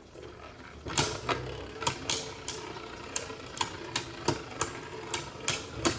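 Two Beyblade Burst spinning tops battling in a plastic stadium: about a dozen sharp clacks as the tops strike each other, irregularly spaced, over a steady whir of spinning.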